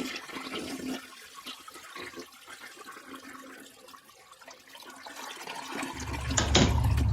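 Toilet flushing, water rushing and draining away, louder at first and then fading. A loud low rumble starts near the end.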